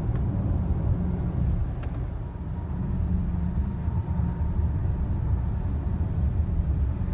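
Steady low road rumble of a car being driven, with a faint click about two seconds in.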